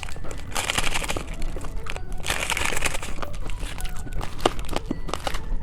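Close-up crinkling and crackling as candy is handled and eaten, with many small clicks and two longer rustling bursts, about half a second in and again a little after two seconds.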